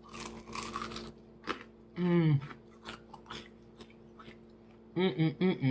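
Close-up biting and chewing of crispy, burnt fried chicken, with crunching in the first second and small wet clicks after. A short falling voiced hum comes about two seconds in, and a few quick voiced sounds near the end.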